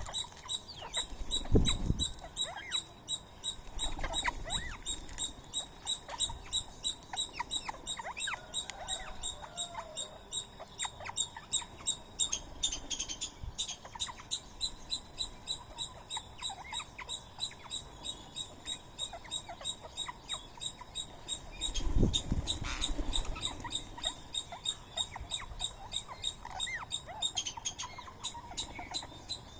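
Small animals calling at a feeding spot: a steady series of short high chirps at about two a second, with scattered short whistled bird calls. There are a couple of low thuds, one near the start and one about 22 seconds in.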